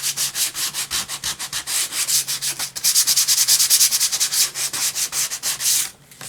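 Fine-grit sandpaper rubbed in quick, even back-and-forth strokes over a painted wooden cutout, about six strokes a second, stopping shortly before the end.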